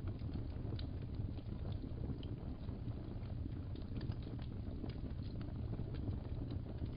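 Wood fire crackling: a steady low rumble of flames with small, irregular pops and snaps scattered throughout.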